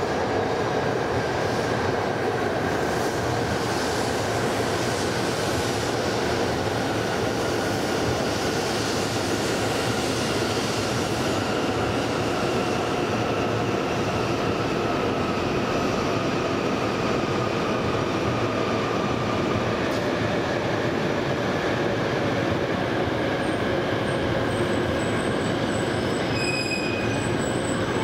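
E2-series Shinkansen electric train pulling into a platform and slowing: steady rolling rumble of wheels on rail with a motor whine that slowly falls in pitch as it decelerates. Short repeated high-pitched squeals come in near the end as it draws to a stop.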